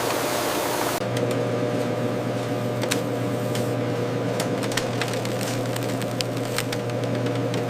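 Food-processing machinery running with a steady hum and scattered sharp clicks and ticks. It follows a loud rushing noise like running water that cuts off abruptly about a second in.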